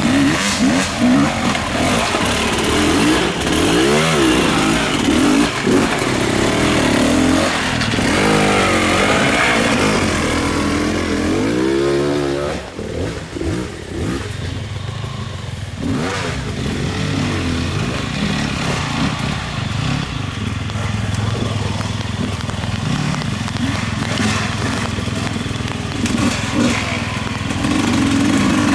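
Off-road motorcycle engine running under varying throttle, its pitch repeatedly rising and falling as it revs up and eases off, with a short lull about halfway through.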